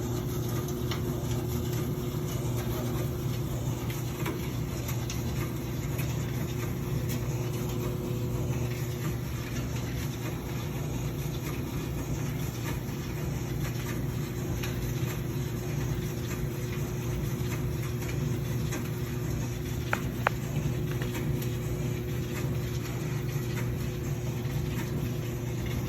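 Steady low mechanical hum of a motor running, unchanging throughout, with a few faint ticks.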